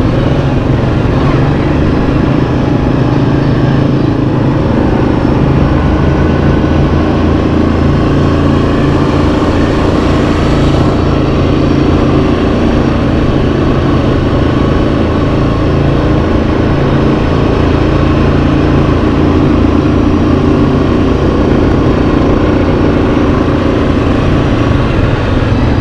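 Yamaha Kodiak 700 ATV engine, a single-cylinder four-stroke, running at a steady pace on the trail with little change in pitch.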